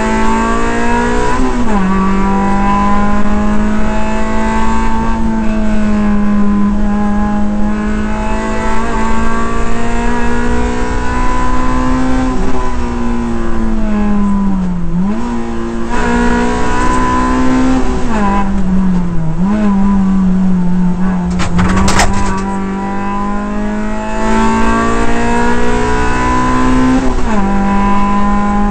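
Suzuki Swift Sport rally car's four-cylinder engine heard from inside the cabin at stage pace. Its pitch climbs in each gear and drops sharply at the gear changes, dipping where the car slows for bends. There is one sharp knock about three-quarters of the way through.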